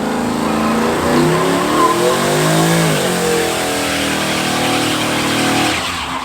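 A truck engine revving hard, its pitch sinking to a low point about halfway through and then climbing again, over a steady hiss.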